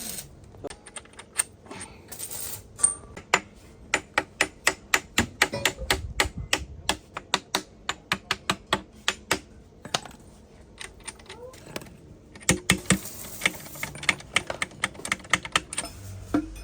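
An irregular run of sharp clicks and taps, several a second, with a short lull about ten seconds in.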